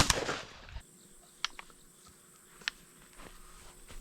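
A single 12-gauge shotgun shot, its report rolling off for most of a second before cutting off suddenly. Then a couple of faint clicks.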